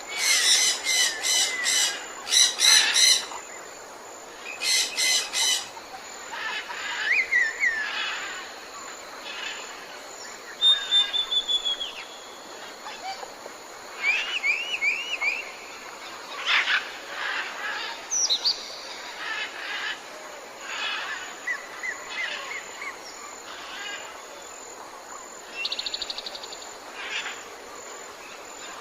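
Several birds calling in turn over a steady background hiss. Loud rapid calls come in the first few seconds, with a falling whistle, a run of short rising chirps about halfway through, and scattered softer calls after that.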